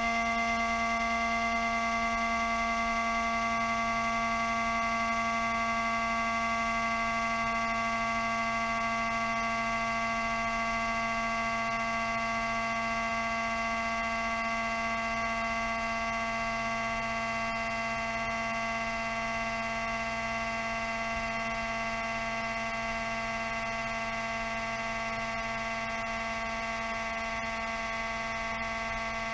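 Cooling fan of a Toshiba REGZA RD-R100 DVD recorder running with a steady whine made of several tones at once, slowly growing a little quieter. The abnormal noise is the sign of a failing fan, as the owner believes.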